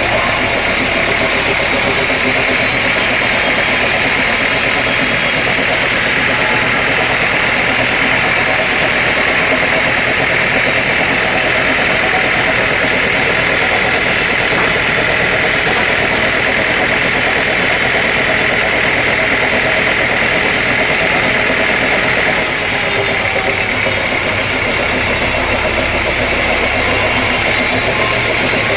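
Sawmill machinery running steadily: an engine-like drone under a constant high whine, which shifts slightly about 22 seconds in.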